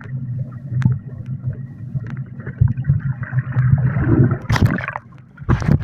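Muffled underwater rumble and gurgling of swimming-pool water, heard through a mobile phone's microphone while the phone is submerged. Brighter, splashy bursts with sharp clicks come in during the second half.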